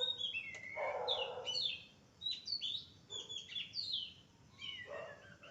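Birds chirping: a quick run of short, downward-sliding whistled notes, with a few harsher, raspy calls mixed in.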